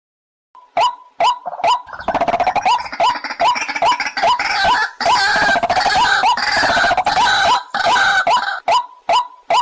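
White-breasted waterhen calling: short sharp notes about three a second, which swell into a dense, harsh run of rapid calls for several seconds and then drop back to the single repeated notes.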